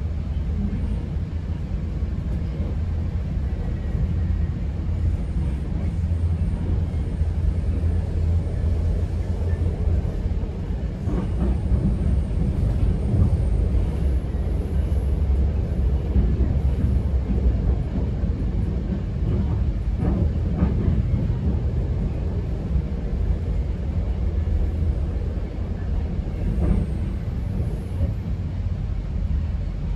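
GO Transit bilevel passenger train running along the track, a steady low rumble heard from inside the coach, with a few brief knocks now and then.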